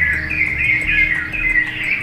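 Many songbirds chirping in a busy, overlapping chorus, with soft background music underneath.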